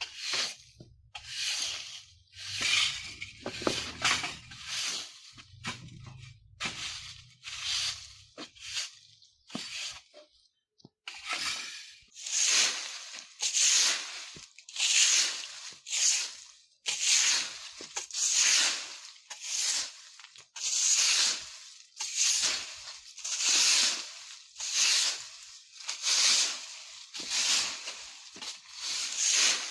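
Broom sweeping dry leaves on the ground: scratchy, rustling strokes, lighter and quicker for the first ten seconds, then after a brief pause, steady, louder strokes a little under one a second.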